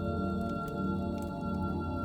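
Ambient music of sustained, ringing drone tones, like a singing-bowl pad, with a few faint sharp crackles of a wood fire.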